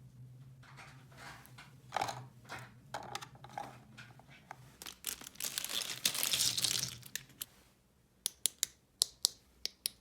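Plastic toy packaging being handled, crinkling and tearing, densest about five to seven seconds in, followed near the end by about eight sharp clicks of small hard plastic pieces.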